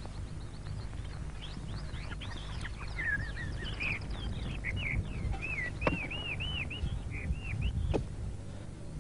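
Birds chirping: a run of short, quick whistled notes that rise and fall, over a low steady hum.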